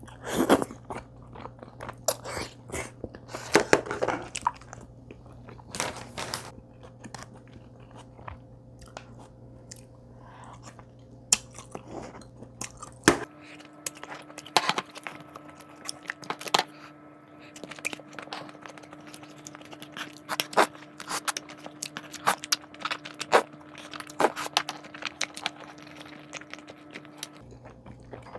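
A person chewing and biting food close to the microphone, with many short, sharp mouth clicks. The food is rosé tteokbokki and flying-fish-roe rice balls.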